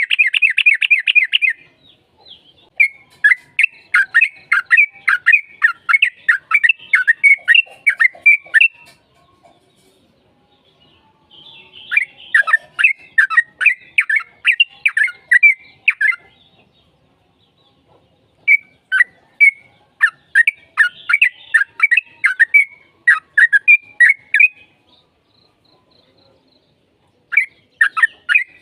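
Yellow-vented bulbul singing in long bouts of quick, bubbling notes, about two to three a second, each bout lasting several seconds with short pauses between, the lively long-run song that bird keepers use as a lure to set other bulbuls singing.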